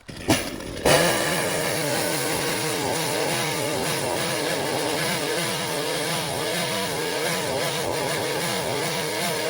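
Small 35 cm McCulloch petrol chainsaw coming up to speed about a second in, after a short burst, then running at high revs as it cuts the sloping cut of the felling notch into a pine trunk.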